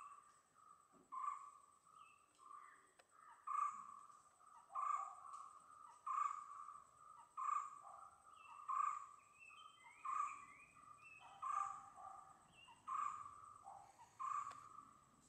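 A bird repeating one short, mid-pitched call at a steady pace, about once every second and a quarter. Other birds chirp now and then, and a steady high insect whine runs underneath.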